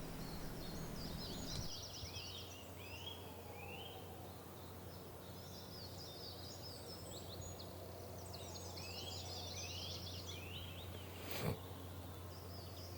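Faint outdoor ambience of songbirds singing in short, quick chirping phrases, over a low steady hum. A single sharp click comes about a second and a half before the end.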